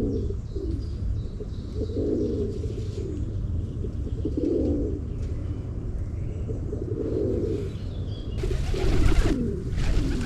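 Pigeons cooing, a low coo every two to three seconds, over a steady low rumble with faint chirps from small birds. A brief loud rustle comes about eight seconds in.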